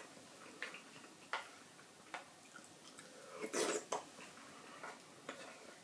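Eating at a table: scattered light clicks and taps of chopsticks and dishes, with a louder, short noisy burst about three and a half seconds in.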